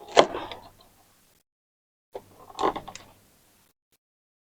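Clicking and rattling of small plastic parts being handled while ink tubes are fitted to a printer's ink supply system, in two short bursts about two seconds apart.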